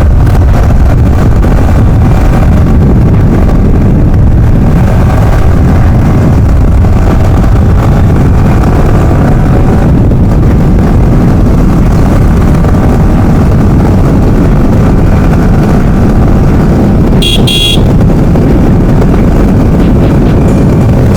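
Motorcycle riding at speed: a steady engine drone under heavy wind rush on the microphone, with one short horn toot about three-quarters of the way through.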